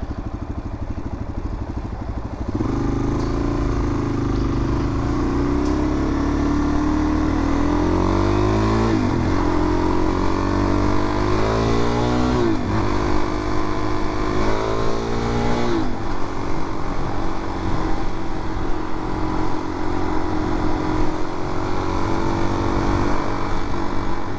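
Suzuki DR-Z400's single-cylinder four-stroke engine pulling away and accelerating through the gears. Its pitch climbs and drops sharply at three upshifts, between about nine and sixteen seconds in, then holds steady at cruising speed.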